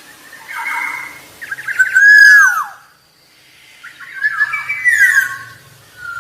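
Black-naped oriole singing: two phrases of fluty whistles with sliding notes that bend downward, a second or so apart.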